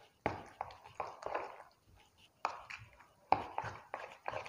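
Batter being stirred in a bowl, the mixing utensil knocking against the bowl's side in quick runs of sharp clicks.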